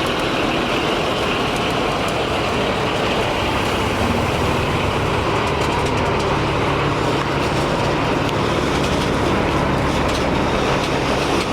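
Heavy truck's diesel engine running close by with a steady rumble that grows deeper and stronger about four seconds in.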